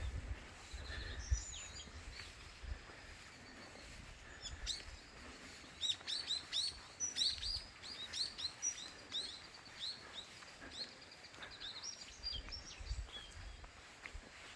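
Songbirds chirping in many short, quick falling notes, starting a few seconds in and thickest in the middle, with a low rumble at times underneath.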